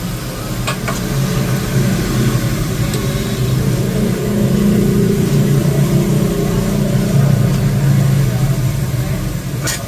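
Steady low mechanical hum, like a motor or engine running, with a few light clicks near the start and near the end.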